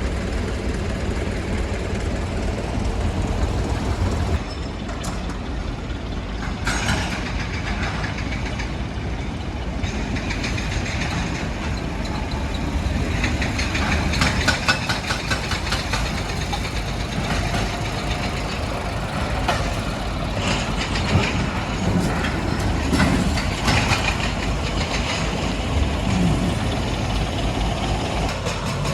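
Heavy machinery engine running steadily, with bouts of rapid clattering and knocks in the middle and later part.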